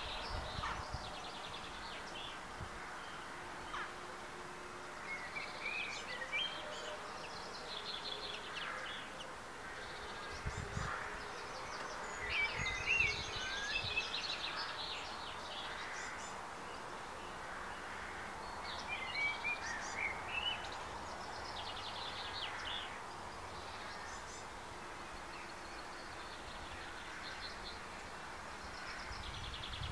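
Small birds singing and chirping on and off, short trills and calls over a steady faint outdoor hiss, with a couple of brief low rumbles about a third of the way in.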